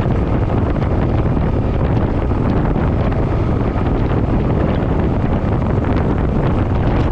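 Steady wind noise on the microphone of a moving motorcycle, with the engine and road noise running underneath.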